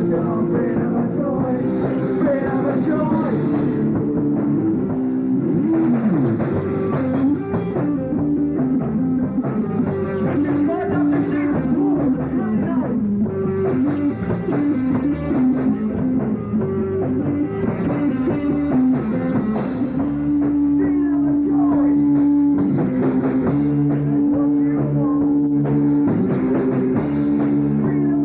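A rock band playing a song live, with guitar and drum kit.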